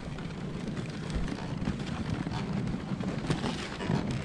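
Dog sled gliding along a snow trail: a steady rumbling hiss of the runners over snow, mixed with wind on the microphone, and a couple of sharp knocks near the end.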